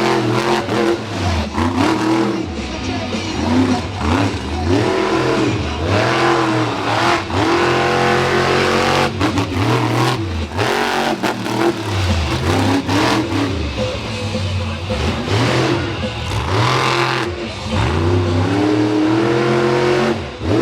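Monster truck engine revving hard again and again, its pitch climbing and dropping every second or two as the throttle is worked.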